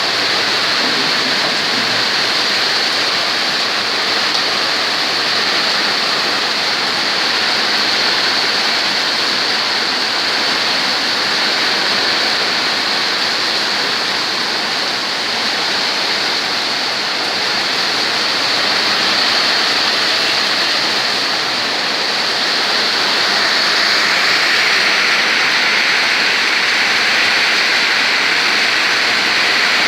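Heavy rain pouring in strong wind: a loud, steady rush that swells a little louder and brighter near the end.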